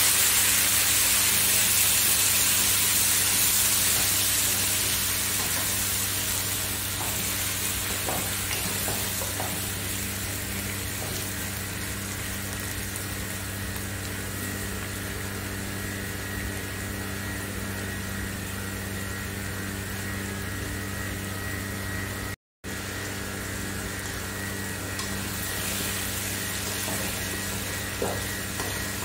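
Tomato slices, onions and green chillies sizzling in a nonstick wok over a steady low hum; the sizzle eases off over the first several seconds. Near the end a spatula stirs and scrapes through the pan with a few short knocks.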